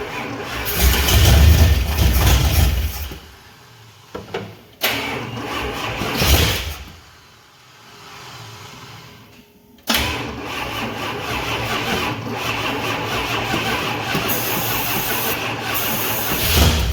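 Starter cranking a freshly rebuilt small-block Chevy V8 in three tries: about three seconds, then about two, then a long run from about ten seconds in. It turns over without catching, because there is no fuel in the tank.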